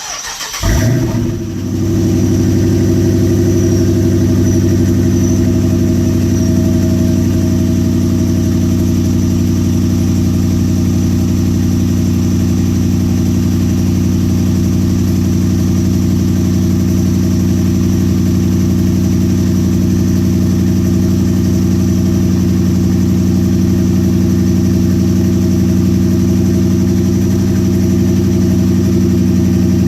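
2008 Jeep Grand Cherokee SRT8's 6.1-litre HEMI V8, with a Flowmaster exhaust, cold-started: a brief crank, it catches and flares up about a second in, then settles into a steady idle.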